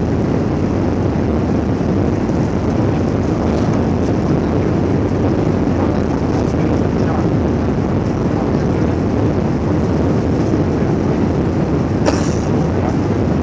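Steady roar of engine and airflow noise inside an Airbus A320 cabin in flight, with one short click about twelve seconds in.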